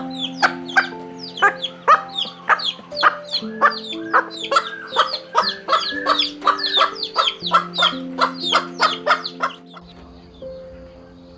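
A fast run of short clucking bird calls, several a second, over background music. The calls stop about ten seconds in, leaving the music.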